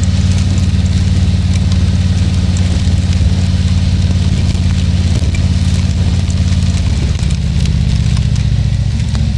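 2020 Harley-Davidson Tri Glide Ultra's Milwaukee-Eight 114 V-twin running steadily on the road. Its pitch drops about seven seconds in and rises again near the end. Faint scattered ticks of rain hit the helmet mic.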